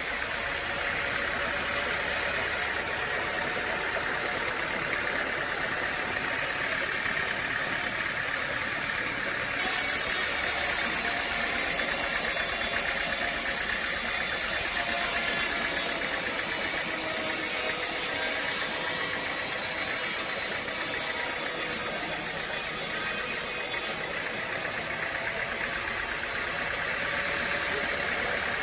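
Sawmill machinery running steadily with an engine-like hum and faint rattle. A brighter hiss starts abruptly about ten seconds in and stops just as abruptly a few seconds before the end.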